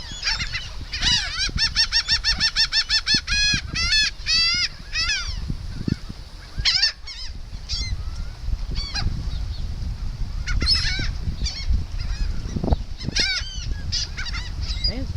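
Gulls calling: a fast run of repeated, ringing calls in the first few seconds, then scattered single calls and short series.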